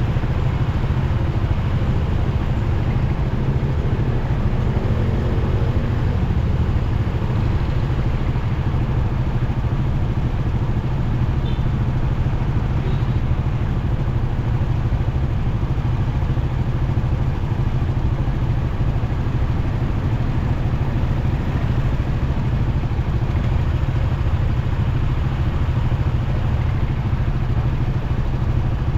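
Motorcycle being ridden through city traffic: steady engine and road noise, strongest in the low end, holding an even level throughout.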